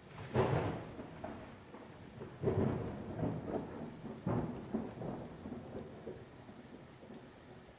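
Thunderstorm: steady rain with rolling thunder, three main rumbles in the first half or so, then dying away toward the end.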